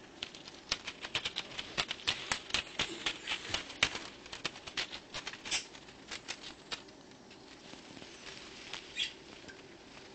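A pet lovebird at work on her feathers, making a rapid run of small crisp rustles and clicks for about the first five seconds, then only scattered ones.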